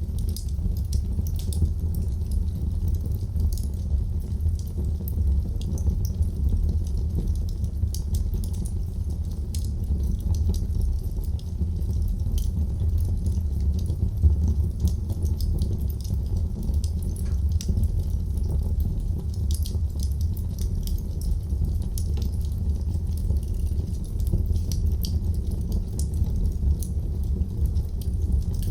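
Wood fire crackling in a fireplace: a steady low rumble of the flames under frequent small, sharp crackles and pops, with one louder pop about halfway through.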